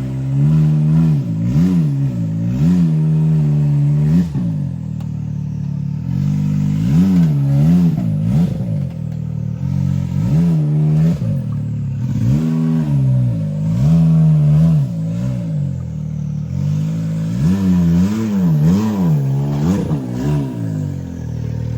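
Side-by-side UTV engine revving up and down over and over in short blips, the throttle worked in bursts as it crawls over rocks, with some clatter and scraping.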